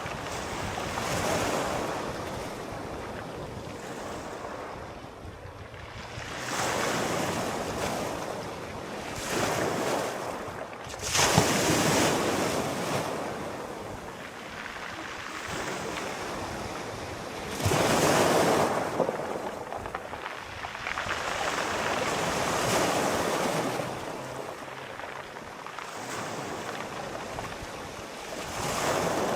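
Sea waves breaking and washing up the shore in repeated surges every few seconds, two of them louder, about eleven and eighteen seconds in.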